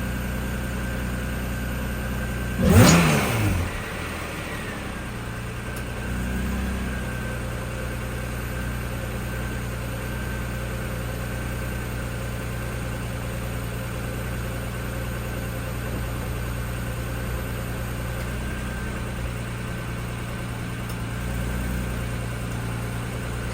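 Honda NSX's V6 idling steadily while still cold after a cold start. About three seconds in it gives one short rev that drops straight back to idle.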